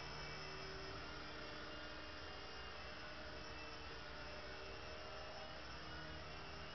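Small electric motors of a mini three-channel RC helicopter whirring steadily, a thin hum with several high tones that waver slightly.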